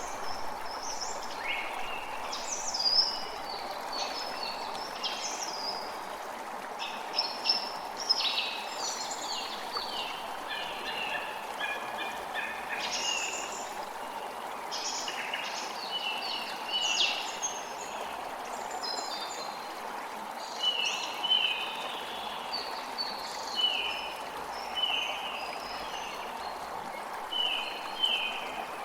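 A creek running steadily over a chorus of forest songbirds chirping and trilling. In the second half, one bird repeats a short falling call about once a second.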